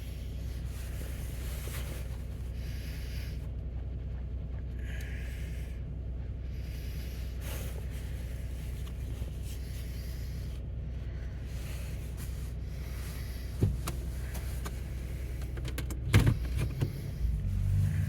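Pickup truck engine idling steadily, a low even hum. There is a single knock about fourteen seconds in, and a few louder knocks and rustles near the end.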